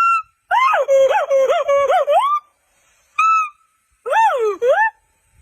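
Monkey calls: short high chirps and runs of warbling calls that swoop up and down in pitch, in several separate bursts.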